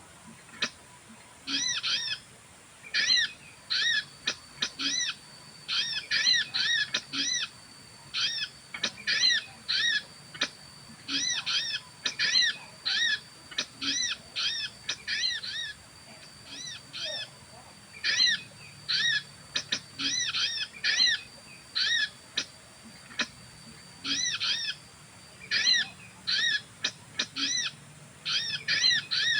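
A bird calling with short, arched chirps repeated in quick runs of several a second. A faint, steady high whistle runs behind them from a few seconds in until near the end.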